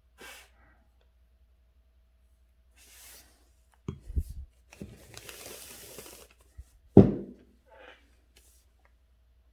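Paper being handled on a desk: brief rustles and a sliding or tearing sound lasting about a second and a half, with a few thumps and one sharp knock about seven seconds in, the loudest sound.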